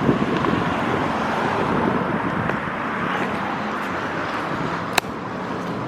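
Steady noise of road traffic and cars, with one sharp click about five seconds in.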